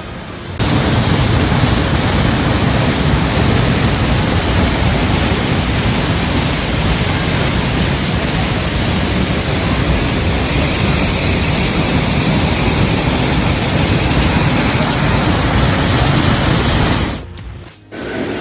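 Waterfall close by: a loud, steady rush of falling water that comes in suddenly about half a second in and cuts off near the end.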